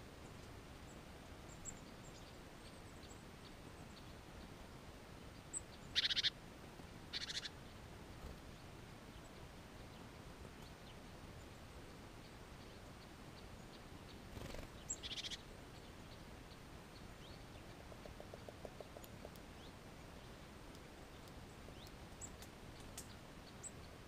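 Short, sharp bird calls: two about a second apart about six seconds in, and a third at about fifteen seconds, over a faint steady outdoor background.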